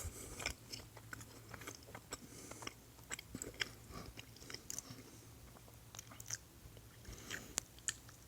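A person eating French fries: faint chewing and biting, with many small scattered clicks and crunches.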